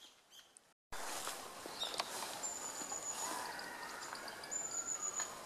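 Outdoor woodland ambience with a steady hiss, cut off briefly near the start, with two long, thin, high, steady whistles a little over a second apart.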